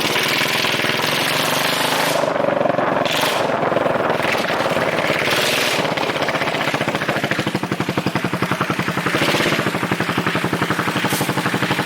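Straight-piped exhaust of a 2009 Yamaha Majesty 400 scooter's single-cylinder engine running, a loud rapid train of exhaust pulses.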